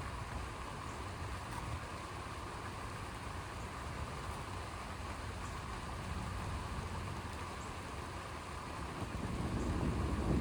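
Steady rain during a thunderstorm, with a deep low rumble underneath that swells louder near the end.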